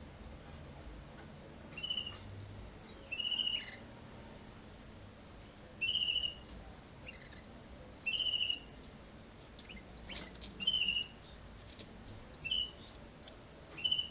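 Domestic canary giving short trilled calls, seven in all, repeated every one to two and a half seconds.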